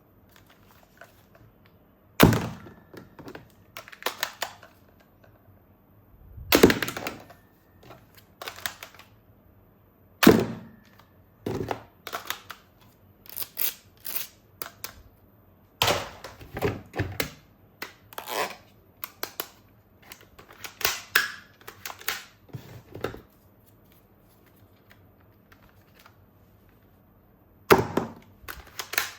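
Hard plastic toy gun parts being handled: irregular sharp knocks and clicks, a handful of loud ones several seconds apart with quicker runs of smaller clicks between them.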